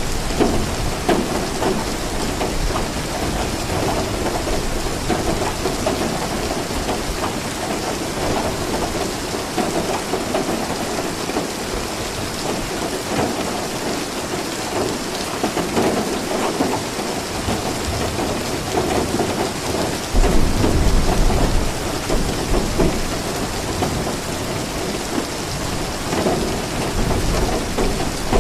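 Steady rain falling and pattering on surfaces. About twenty seconds in, a low rumble of thunder rises and fades over a couple of seconds.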